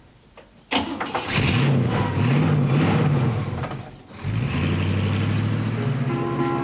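A 1959 Cadillac's 390 cubic-inch V8 starting up about a second in and revving up and down a few times. It dips briefly, then settles into a steady idle. Music comes in near the end.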